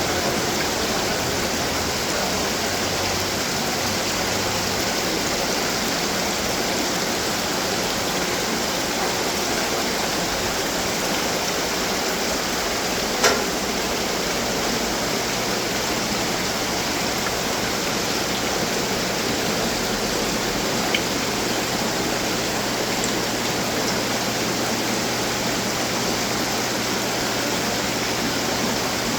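Steady rush of splashing water from running garden fountains, with a single sharp click about halfway through.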